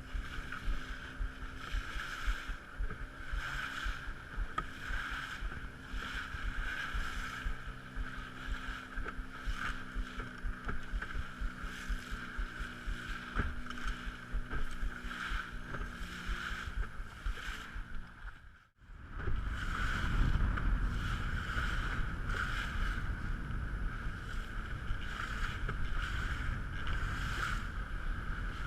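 A small fishing boat's motor running steadily at sea, with wind on the microphone. About two-thirds of the way through, the sound drops out for a moment and comes back with a heavier low rumble.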